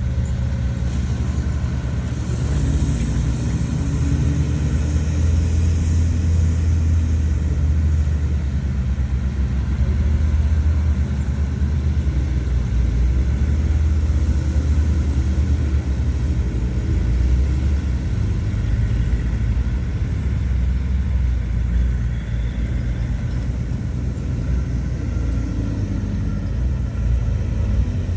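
Heavy earthmoving machinery's diesel engine running steadily with a low rumble, swelling a little between about two and sixteen seconds in.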